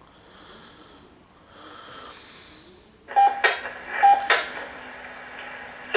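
Railroad scanner radio: a faint hiss, then two sharp squelch clicks, each with a short beep, about three and four seconds in, followed by a steady low hum.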